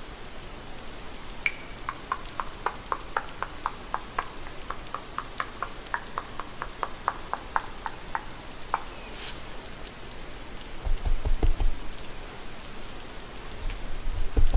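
Steady rain ambience. Over it, a quick run of light ticks, about four a second, lasts several seconds, and a few dull low thumps follow near the end.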